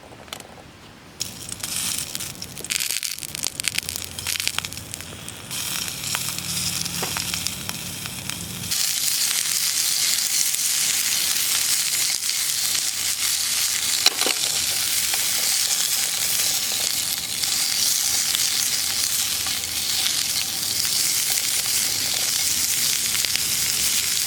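Food frying in a pan: scattered crackles and pops at first, then a steady, louder sizzle from about nine seconds in.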